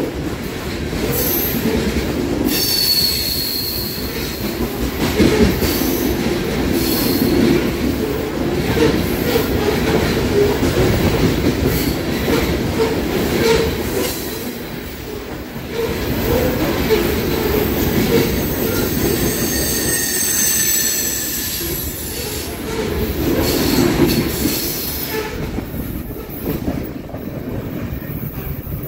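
Loaded coal hopper cars rolling past close by: steel wheels rumbling and clacking over the rails, with thin high wheel squeals several times, most around 17 to 21 seconds in. The sound fades near the end as the last car moves away.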